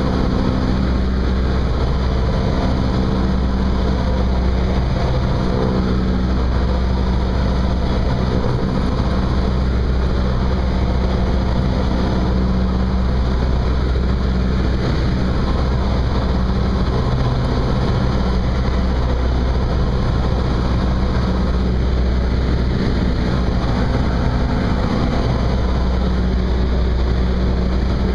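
Cessna 172's piston engine and propeller running with a steady drone.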